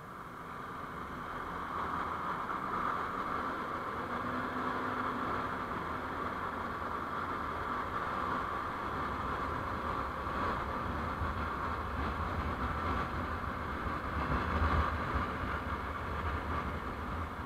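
Steady running noise of a road vehicle on the move: low engine and tyre rumble under a hiss. It builds over the first two seconds, then holds, with a brief swell near the end.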